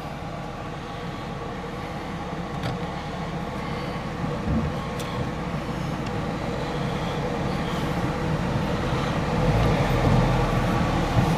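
The 2.8-litre M110 twin-cam inline-six of a 1978 Mercedes-Benz 280SE running as the car is put into gear and pulls away, with the AC compressor loading the engine. The sound grows steadily louder, with a heavier low rumble in the last couple of seconds.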